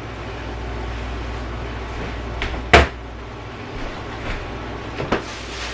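A kitchen cabinet door shutting with one sharp knock a little under three seconds in, with a few lighter knocks of things being handled before and after, over a steady low hum.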